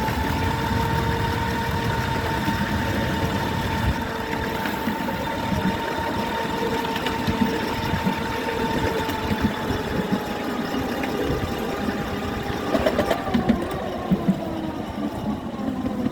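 RoR Hercules electric locomotive running, its motor giving a steady whine that falls in pitch over the last few seconds as it slows. Irregular clicks and knocks from the wheels and track run under it, with a short cluster of knocks near the end.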